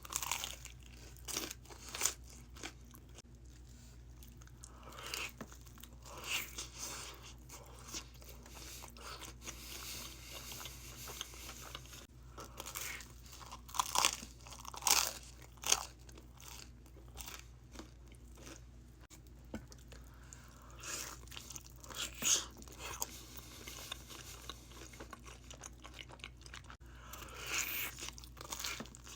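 A person biting and chewing crunchy food close to the microphone: irregular crisp crunches with quieter chewing between, in a few bursts of bites.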